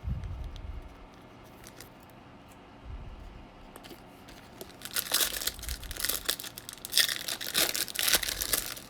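A foil trading-card pack wrapper being torn open and crinkled, a dense crackle that starts about five seconds in and comes in two loud spells. A couple of dull knocks from handling come before it.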